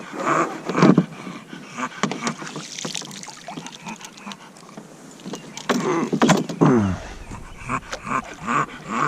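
A bulldog vocalizing in short repeated bursts, with a longer call that falls in pitch about two-thirds of the way in. Several sharp knocks come just before that call.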